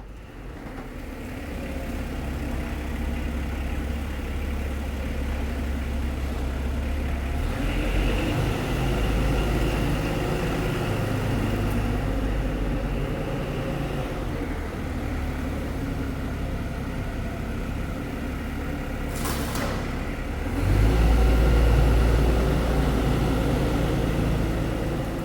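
A heavy machine's engine running, its revs rising and falling as it works. A short burst of hiss comes about three-quarters of the way through, and the engine is at its loudest just after.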